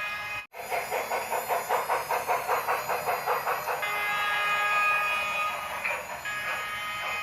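Union Pacific Big Boy steam locomotive sound effects from the model train: quick regular exhaust chuffs, then a chime steam whistle held for about two seconds, a short break, and the whistle again near the end.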